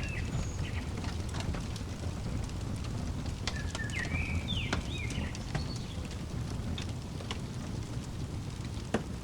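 Crackling fireplace: a steady low rumble with scattered sharp pops, one louder pop near the end. A bird calls a few short chirps over it, mostly around the middle.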